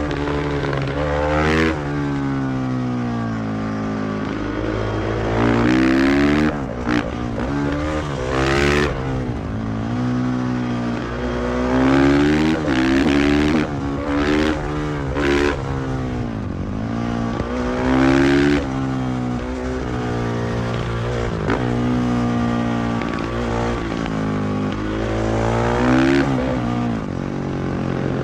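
KTM 500 EXC-F supermoto's single-cylinder four-stroke engine revving up and dropping back again and again as the bike accelerates through the gears and slows, with a few short sharp cracks in between.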